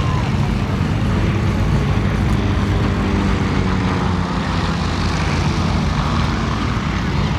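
Van's RV-8A single-engine propeller plane flying a low pass, its piston engine and propeller droning steadily.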